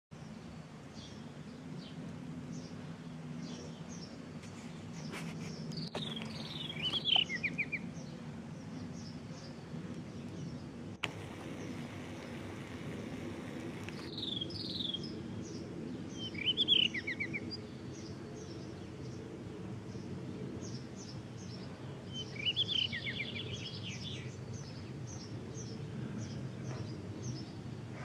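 Birds calling: a steady scatter of short high chirps, and three louder song phrases, each a falling whistle ending in a quick trill, a few seconds apart. A low steady hum runs underneath.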